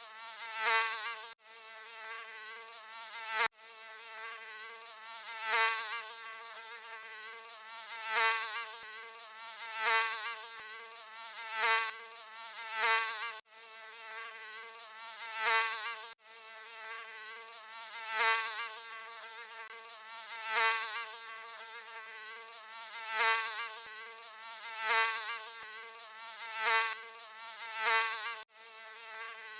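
Mosquito buzzing in flight: a thin, wavering whine that swells louder about every two seconds, with a few very short cuts in the sound.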